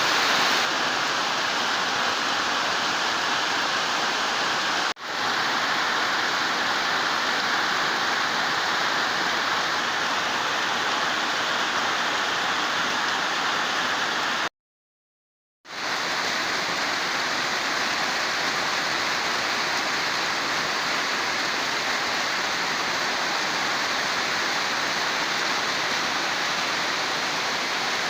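Steady rushing of water, an even hiss with no distinct events. It dips briefly about five seconds in and cuts out completely for about a second near the middle.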